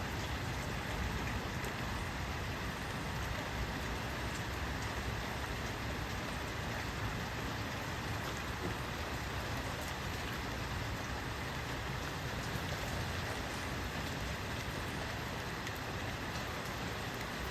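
Steady rain falling, a constant hiss with faint scattered taps of drops.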